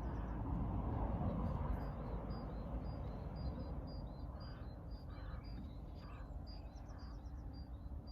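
Birdsong: one bird repeats a short high chirp about twice a second, with softer calls from other birds in the middle, over a steady low rumble.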